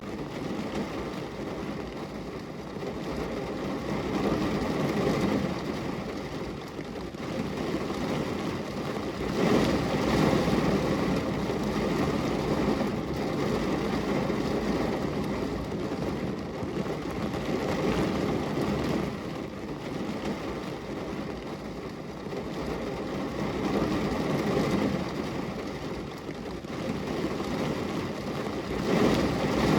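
Steady rain with rolling thunder, a deep rumble that swells and fades several times, loudest about ten seconds in and again near the end.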